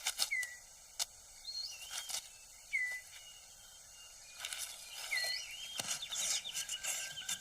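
Dry leaf litter and twigs rustling and clicking as a male six-plumed bird of paradise clears its display ground on the forest floor. Forest birds give a few short curved whistles and a quick chirping over it, the chirping in the second half.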